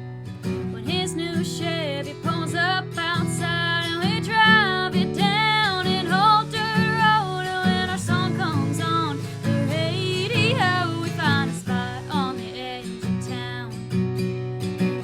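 A singer performing a country song with strummed acoustic guitar, the voice holding and gliding between long sung notes.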